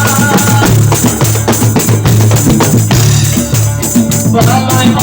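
Zapin (jepen) Malay music: ketipung hand drums and jingling percussion beat a fast rhythm over a steady bass. A plucked melody, as from a gambus, drops out early and comes back near the end.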